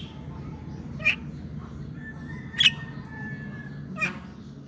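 Short animal calls, three of them about a second and a half apart, over a low steady hum.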